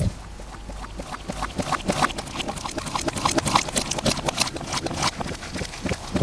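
Slime being squished and worked in the hands, distorted by processing: a dense, irregular run of sticky clicks and pops.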